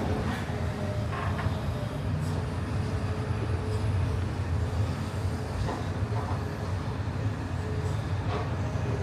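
Steady low engine rumble with a faint whine above it and a few light clatters.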